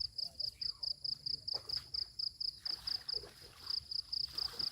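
Insect chirping in a fast, even high-pitched pulse, about six chirps a second, pausing briefly a little past three seconds in.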